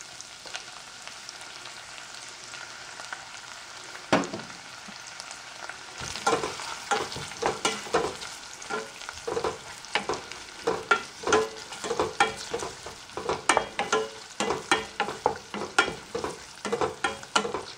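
Sliced coconut frying in ghee in a stainless steel pot, with a steady sizzle. A single knock comes about four seconds in. From about six seconds a wooden spatula stirs the pieces, scraping and clattering against the pot in quick repeated strokes.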